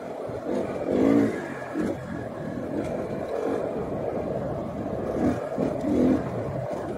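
2018 KTM 500 EXC enduro bike's single-cylinder four-stroke engine running under way on a trail, its pitch rising and falling with the throttle, with stronger surges about a second in and again near the end.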